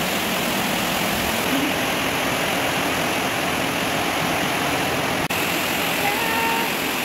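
Steady hiss of heavy rain, dropping out for an instant about five seconds in.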